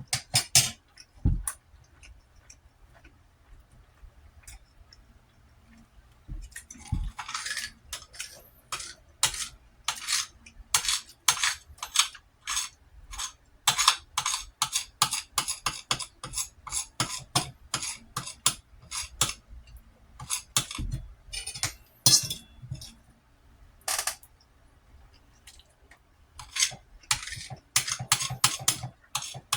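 Eating sounds: a utensil clinking and scraping against a plate of rice, with many short sharp clicks that come sparsely at first and thickly from about six seconds in.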